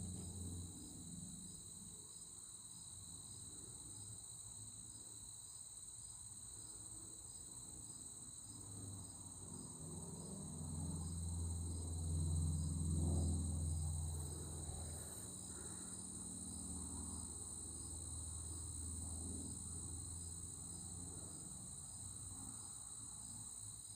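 A steady, high-pitched chorus of crickets and other insects. A low rumble from a distant aircraft swells about halfway through and fades over a few seconds.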